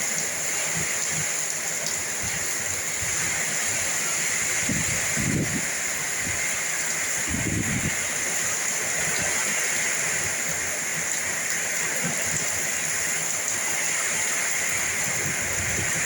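Heavy rain with wind, a steady downpour hiss, with two short low rumbles about five and seven and a half seconds in.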